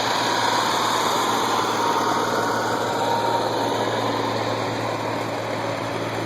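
A diesel pickup engine runs steadily with a low hum, and a faint high whine drifts slightly lower over the first few seconds.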